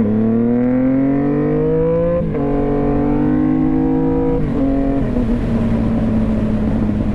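Sport motorcycle engine accelerating hard through the gears: the pitch climbs, drops briefly at each upshift about two seconds apart, then settles into a steady cruise with wind rushing past.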